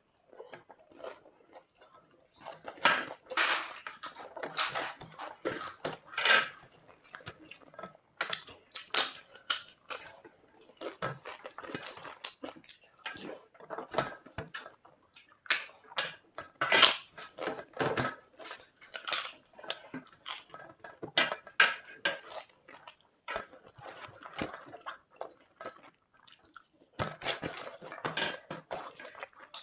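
Close-up eating sounds: irregular chewing and crunching of food, with occasional clicks and clinks of plates.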